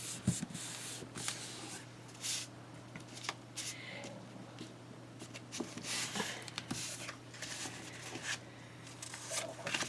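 Paper rustling and being handled, with scattered short rustles and small taps and clicks over a faint steady hum.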